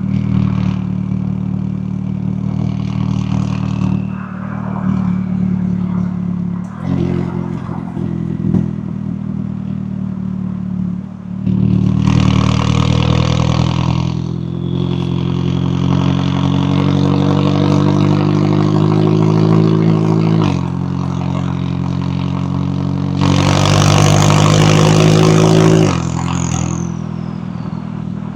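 McLaren 570S twin-turbo V8 exhaust under way, with two louder bursts of throttle. About halfway through, the revs climb slowly through a gear and drop suddenly at a shift. A falling whistle follows near the end.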